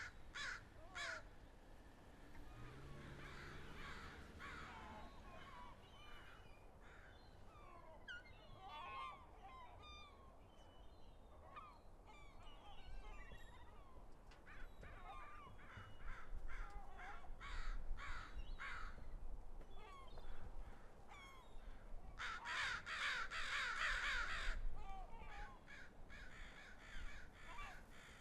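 Birds calling outdoors: scattered short calls and chirps throughout, with a dense, louder flurry of calls lasting a couple of seconds about three-quarters of the way through.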